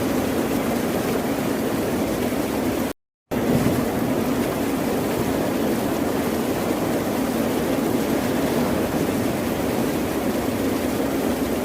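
Steady rush of ocean waves and surf. About three seconds in, the sound cuts out completely for a split second, then resumes unchanged.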